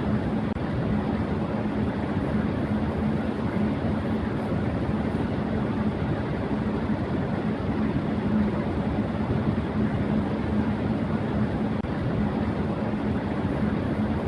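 Electric fan running at high speed: a steady rush of air with a low hum running through it.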